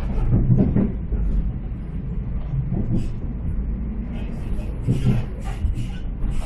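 Inside a moving diesel railcar: a steady low rumble from the engine and running gear, with scattered rattles and clicks.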